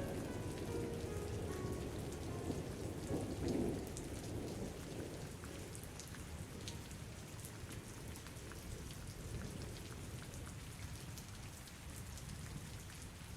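Steady rain falling, with a low rumble, likely distant thunder, swelling about three seconds in and fading. A few faint musical notes sound in the first couple of seconds.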